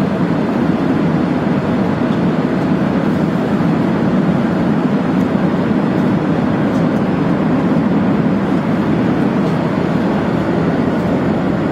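Steady rushing cabin noise inside an Airbus A380 airliner, an even low din of airflow and engines with no change in pitch or level.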